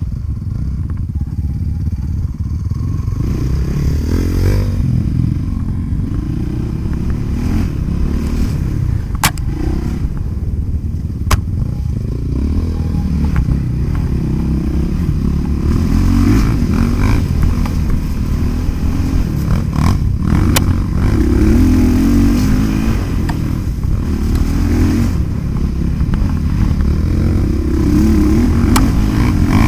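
Motocross bike engines running and revving, rising and falling in pitch throughout, with a few sharp clicks.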